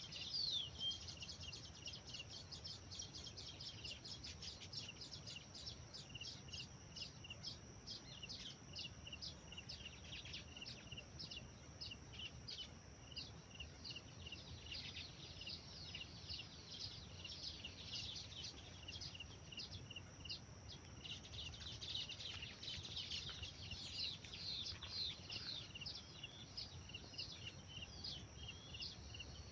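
Birds chirping: a steady run of short, high chirps, about three a second, busier and overlapping a little past the middle, over a faint low rumble.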